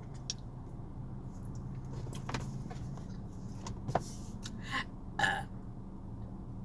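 Steady low hum of an idling car heard inside the cabin, with a few sharp clicks and two short pitched mouth sounds near the end.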